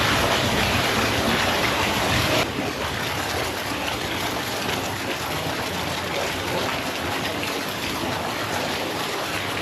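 Steady rushing water, an even hiss-like wash without a beat.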